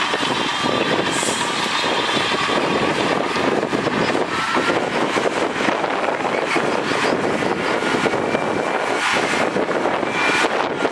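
Heavy diesel earthmoving machinery working with a steady, dense engine noise, with a few faint thin squeals over it.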